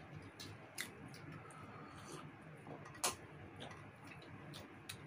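Close-miked eating sounds: scattered wet mouth clicks and smacks from chewing roast chicken, with one sharper click about three seconds in.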